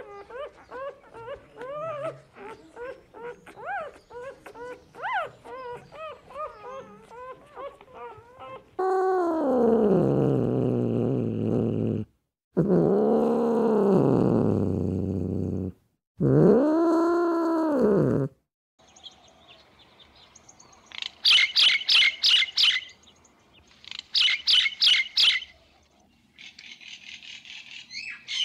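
A series of short, repeated chirping calls. Then three long, loud moaning calls from a clouded leopard, each sliding down or arching in pitch. Then bursts of rapid, high bird trills.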